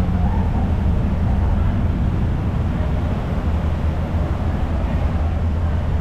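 Outdoor city street ambience dominated by a steady low rumble.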